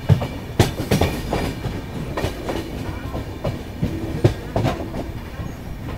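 Passenger train running on the rails, its wheels clattering over rail joints with irregular sharp knocks about twice a second over a steady rumble.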